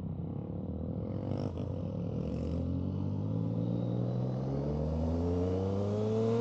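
Motor vehicle engine running and accelerating, its pitch climbing steadily over the second half.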